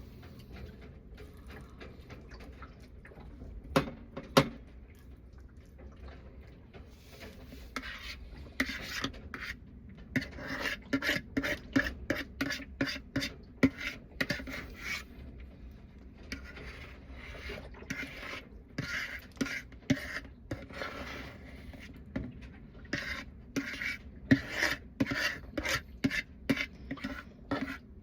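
A person chewing crunchy food close to the microphone, in quick rhythmic crunches of about two to three a second, coming in runs with a pause between them. Two sharp clicks sound about four seconds in.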